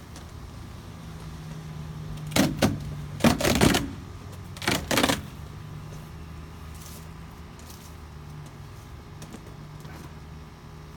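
Clattering knocks in three quick bursts, about two and a half to five seconds in, as a storm window panel is handled and set down, over a steady low hum.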